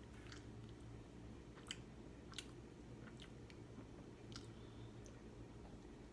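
Faint chewing of a mouthful of pizza, with a few short wet clicks from the mouth, the two loudest close together about two seconds in.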